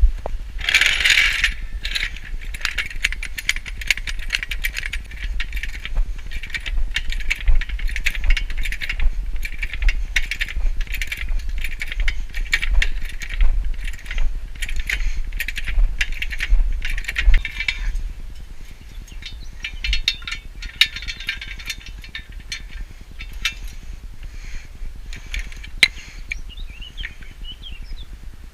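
Rapid, irregular metallic clicking and clinking of hand tools at work, busiest for the first two-thirds and lighter after about eighteen seconds.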